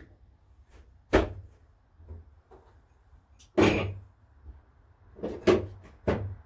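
Several sharp knocks and thumps, about four in all, the loudest a second in and three and a half seconds in, each dying away quickly.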